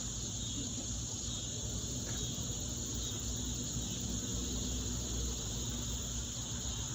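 A steady, high-pitched chorus of insects chirping outdoors, with a low rumble underneath.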